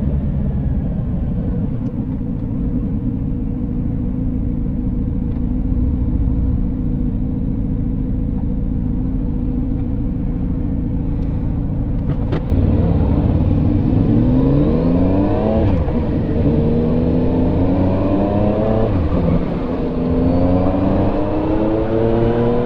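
Motorcycle engine running steadily, then about halfway through it pulls away, rising in pitch three times with a drop between each as it shifts up through the gears.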